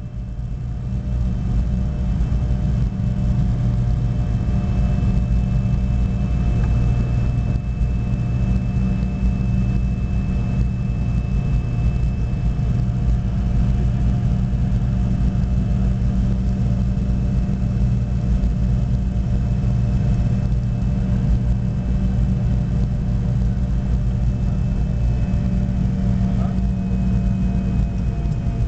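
Cabin noise of a Fokker 70 during take-off: a steady deep rumble from its Rolls-Royce Tay turbofans with a thin steady whine over it, swelling over the first few seconds and then holding steady.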